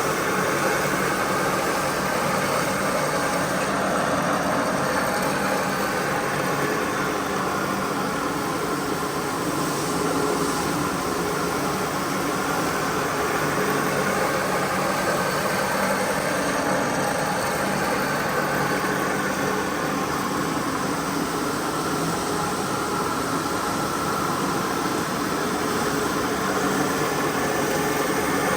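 A cleaning machine's motor running steadily: a constant hum under a broad hiss.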